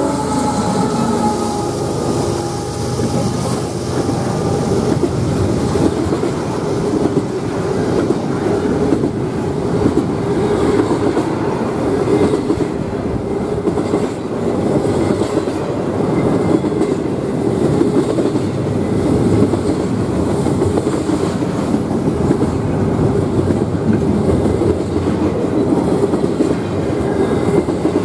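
Double-stack intermodal freight train rolling past close by. A GE diesel locomotive goes by at the start, then loaded container well cars give a steady, loud rumble with wheels clattering on the rails.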